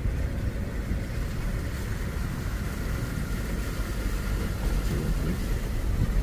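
A motor vehicle running: a steady low rumble with no clear changes.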